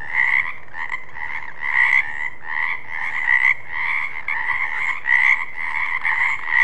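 Frogs croaking in a steady run of calls, about one and a half calls a second.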